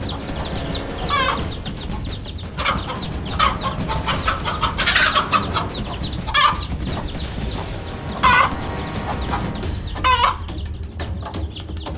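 Chickens clucking, with a string of short, loud calls a second or two apart that drop in pitch.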